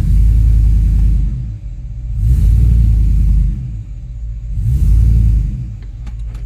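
2005 Chevrolet Tahoe's 5.3-litre V8 in reverse gear, given gas three times so the engine note swells and drops with each press of the throttle. It pulls cleanly with no misfires.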